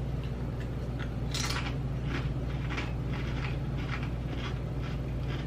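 A rippled dill pickle potato chip is bitten with one loud crunch about a second in, then chewed with a run of softer, regular crunches. A steady low hum runs underneath.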